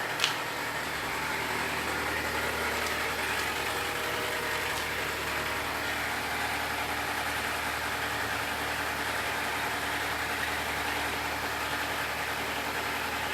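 Honda CR-V engine running steadily at idle with an odd noise that at times sounds like a diesel engine. A single sharp click sounds just after the start.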